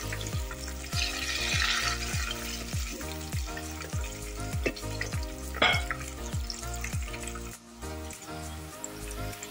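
Eggplant strips deep-frying in a pot of hot oil, sizzling as they are turned with tongs, with one sharp clack a little past halfway. Background music with a steady beat plays over the frying.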